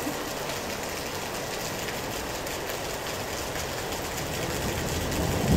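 Heavy rain pouring onto wet pavement, a steady hiss of drops hitting standing water, with a low rumble swelling near the end.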